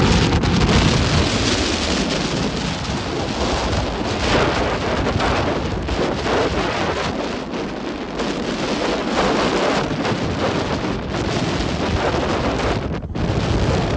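Rough sea: surf breaking and washing in a continuous loud rush that surges and ebbs, with wind buffeting the microphone.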